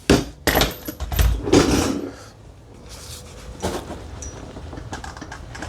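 Metal tools and suspension parts knocking and clattering, a quick run of sharp knocks in the first two seconds and another about two-thirds of the way through, as a stubborn lower control arm bolt is worked on.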